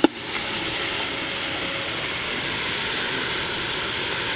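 Masala of onion, garlic, ginger and spices sizzling steadily in hot oil in an aluminium cooking pot, after a single short knock at the start.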